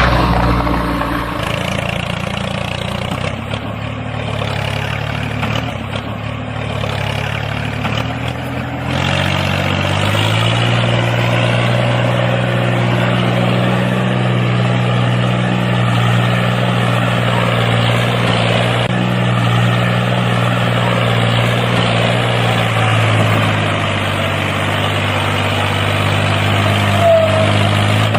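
Small engine of a homemade mini tractor running steadily. Its pitch steps up about ten seconds in as it speeds up, then eases back down near the end.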